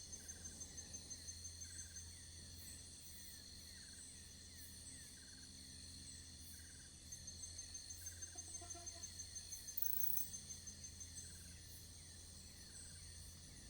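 Insects such as crickets chirping and trilling, several at once: high-pitched trills layered with a chirp that repeats about every second and a half. A short, lower call cuts in briefly a little past halfway.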